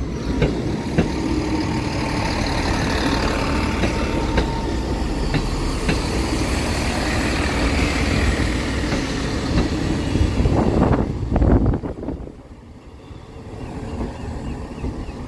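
Class 158 diesel multiple unit passing close over a level crossing: steady running noise with irregular clicks as its wheels cross the rail joints. About twelve seconds in the sound drops sharply as the last coach clears the crossing and the train draws away.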